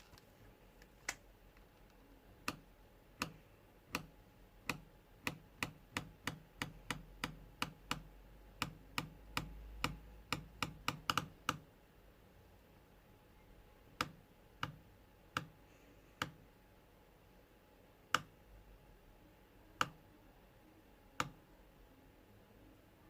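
Keyboard keys pressed one at a time, each a single sharp click: a quick irregular run for about ten seconds, then only a few scattered presses spaced a second or more apart.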